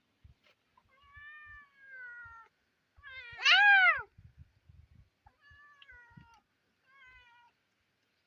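Domestic cat meowing repeatedly: a long falling meow, then a louder one about three and a half seconds in that rises and falls in pitch, then two shorter, softer meows.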